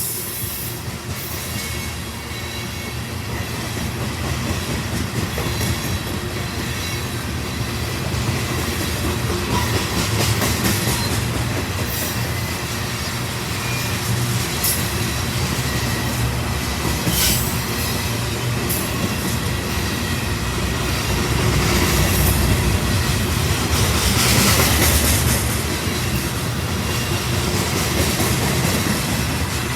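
Train rolling past: a steady rumble of wheels on rail, with scattered clicks over the rail joints and some wheel squeal. A louder hissing swell comes about 24 seconds in.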